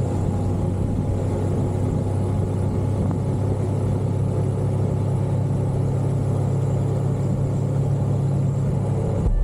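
Motorcycle engine running steadily at an even pitch, with no change in speed.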